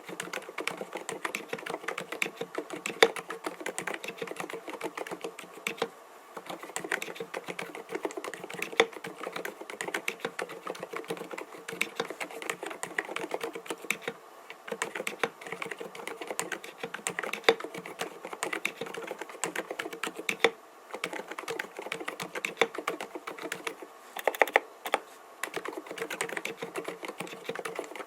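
Typing on an mStone Groove T 87A mechanical keyboard fitted with 45 g silent (dampened) Milky switches: fast, continuous keystrokes with a few brief pauses and an occasional louder stroke.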